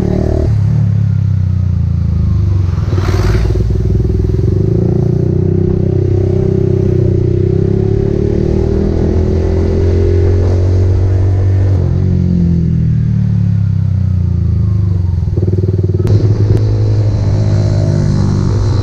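Motorcycle engine running on the road, its pitch dropping and rising several times as the throttle changes. A brief rushing sound comes about three seconds in.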